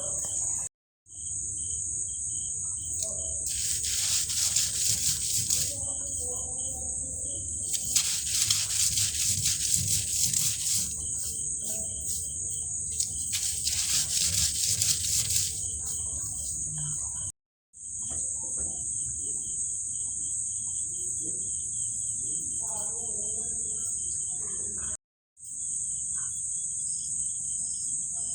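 Insects trilling in a steady high-pitched chorus, with a quicker pulsed chirping under it. Three times a louder hissing swell of about two seconds rises over the chorus. The sound drops out briefly twice at edit cuts.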